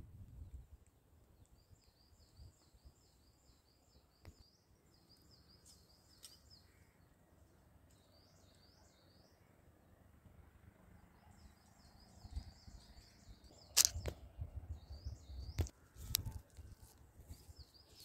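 A small bird singing quick, high chirping phrases over and over, faint. In the last few seconds come several sharp clicks, the loudest about fourteen seconds in, with some low rumbling around them.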